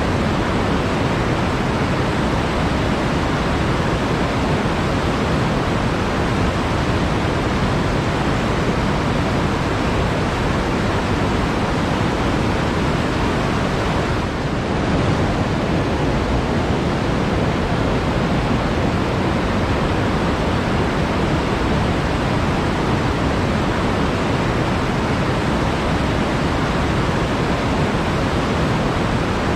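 Steady rush of flowing water, an even, unbroken sound with no separate splashes.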